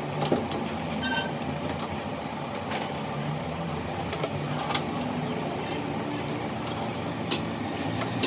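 A motor vehicle's engine running steadily, with scattered sharp clicks and knocks over it and a brief high pitched squeak about a second in.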